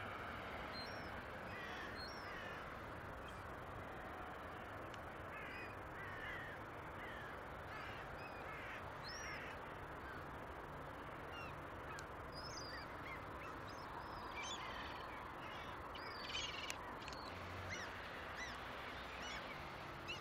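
Birds calling: many short, high chirps, scattered and overlapping, over a steady background hiss.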